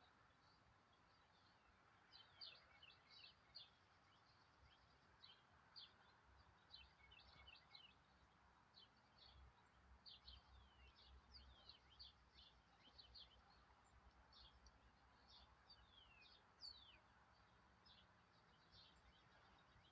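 Faint, high, short bird chirps and twitters, many in quick succession, each a quick downward sweep, over a steady background hiss.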